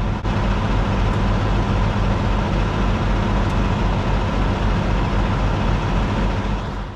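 Peterbilt 579's diesel engine running steadily with a low, even hum, fading out near the end.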